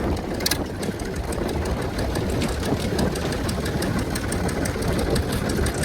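Tractor diesel engine idling in neutral, a steady low rumble with a fast, even clatter.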